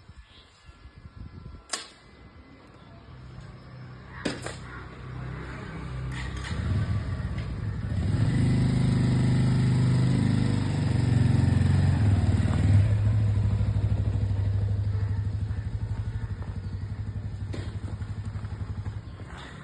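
A motor vehicle engine running, growing louder over several seconds, loudest in the middle and then slowly fading, as if passing by. Two sharp clicks sound in the first few seconds.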